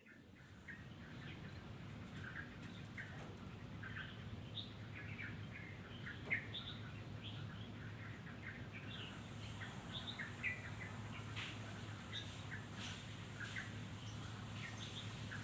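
Many small birds chirping and twittering in quick, short, overlapping calls, over a steady low background hum.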